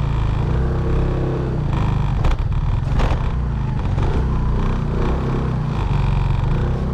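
Motorbike engine running at low revs while the bike is eased over rough off-road ground, with two sharp knocks about two and three seconds in.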